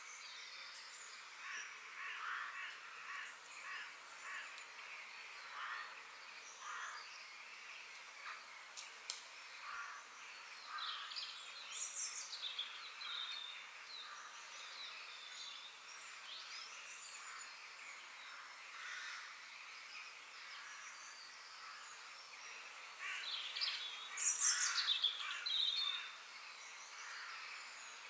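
Birds chirping and calling over a steady hiss of ambience: many short chirps and quick sweeping whistles from several birds at once, loudest in a busy run of calls near the end.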